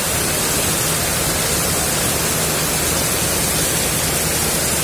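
Heavy tropical downpour: a steady, dense hiss of rain pouring onto pavement and standing water, with a steady low hum underneath.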